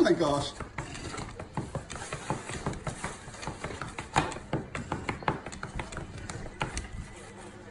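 Irregular crackling and clicking of paper and plastic food packaging being handled and unwrapped. There is a short falling whine at the very start.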